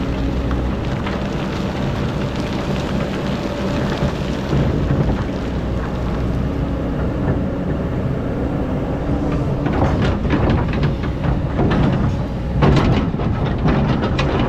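Excavator's diesel engine running steadily under load. Clusters of knocks and clatter come about ten seconds in and again near the end as the bucket digs into the sand.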